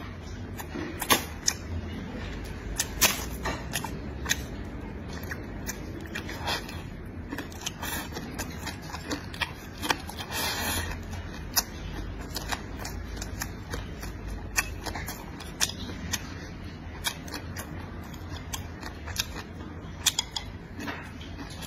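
Close-up eating sounds: a man chewing and smacking on pig's trotter meat and rice, with many sharp, short clicks and smacks scattered throughout and a longer noisy burst about ten seconds in as he shovels rice from the bowl into his mouth.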